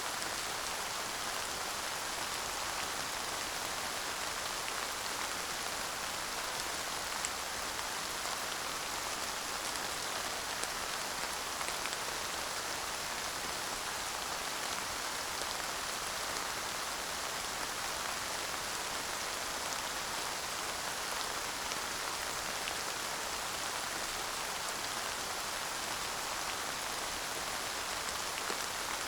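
Steady light rain without thunder, with fine patter of individual drops falling on a surface.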